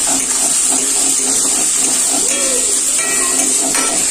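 Chopped onion, capsicum, green chilli and tomato sizzling steadily in hot oil in an aluminium kadai as they fry.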